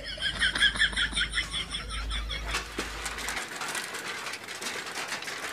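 A small bird chirping rapidly, about five chirps a second, for the first two and a half seconds. After a cut, a bicycle ticks lightly and quickly as it rolls along.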